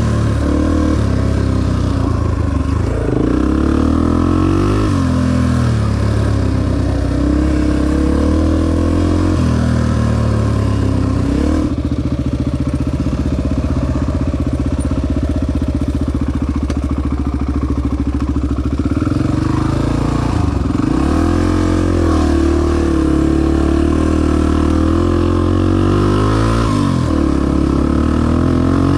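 Honda XR250 dirt bike's single-cylinder four-stroke engine under way, its pitch repeatedly rising and falling as the throttle opens and closes and the gears change, holding steadier for several seconds in the middle.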